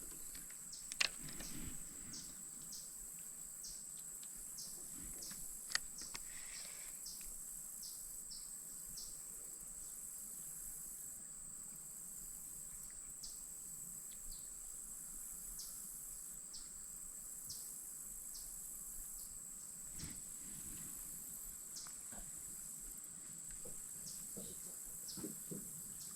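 Insects trilling steadily at a high pitch, with scattered short high chirps and a couple of sharp clicks, one about a second in and one about six seconds in.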